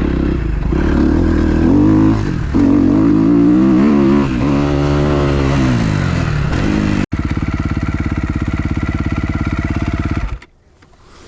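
Fuel-injected 2012 Kawasaki KX250F four-stroke single-cylinder motocross engine being ridden, its pitch rising and falling as the throttle is worked. After a sudden break about seven seconds in it runs steadily, then drops away near the end.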